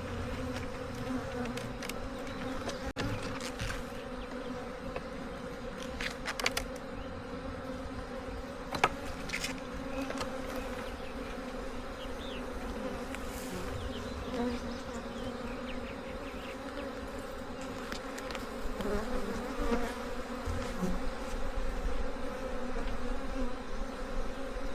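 Honeybees buzzing steadily in a continuous hum around an opened hive as its frames are inspected. A few short sharp clicks come through about six and nine seconds in.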